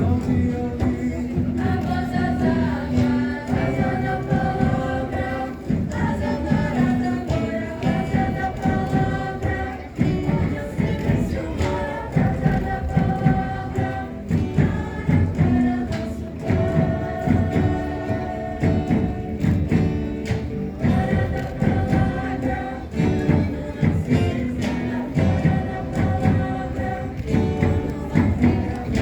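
A group of voices singing a song together over a steady, rhythmic drum beat.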